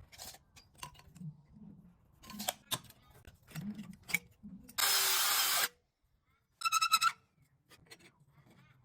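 Plumbing work at close range: scattered clicks and knocks of parts being handled. About five seconds in comes a loud hiss lasting under a second, then a short pulsing buzz from a power tool.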